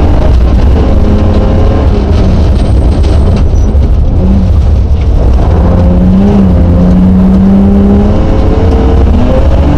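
Rally car engine heard from inside the cabin, running hard under a heavy low rumble. Its pitch climbs, drops back and is held steady for a couple of seconds in the second half as the car is driven along the stage.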